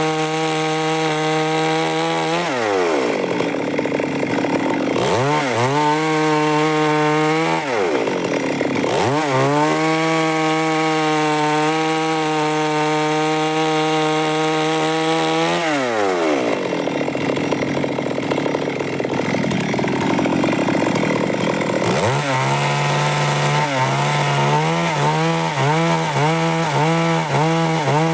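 Stihl MS 382 two-stroke chainsaw running at high revs while sawing wood. Its pitch drops and picks up again several times, falls away to a lower speed for several seconds past the middle, then climbs back and wavers in quick pulses under load near the end.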